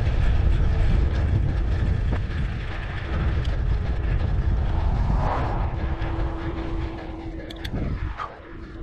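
Wind buffeting the microphone while riding a bicycle, a steady low rumble that eases off near the end.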